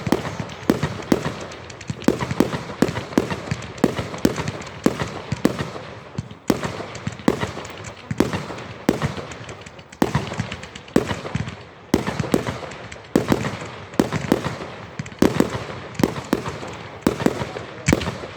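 Fireworks going off in a continuous barrage: sharp bangs about two or three a second, with crackling between them and no break.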